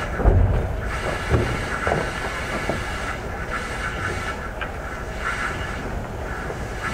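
JR East 205-3100 series electric train rolling slowly to a stop: a low rumble that gradually fades, with a couple of wheel knocks over rail joints in the first second and a half.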